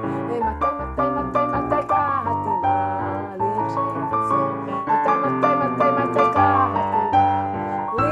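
Electronic keyboard playing a tune in quick successive notes over chords and bass notes.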